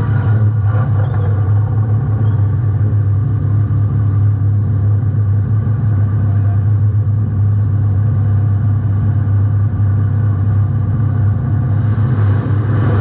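Compact race car's engine heard from a camera mounted on the car. It eases off just at the start, then runs at a steady low speed with a constant low rumble, picking up slightly near the end.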